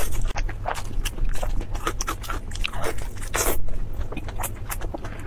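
Close-miked crunchy biting and chewing of food: a run of quick irregular crackles, with one louder crunch about three and a half seconds in.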